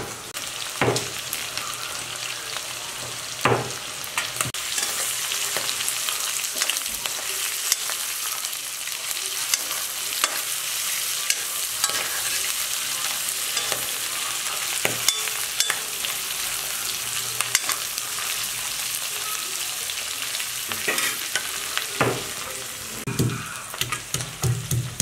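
Chicken liver and gizzard pieces sizzling as they fry in a wok, stirred with a spatula that knocks and scrapes against the pan now and then. Near the end, rhythmic thuds of a stone pestle crushing garlic and ginger on a stone mortar take over.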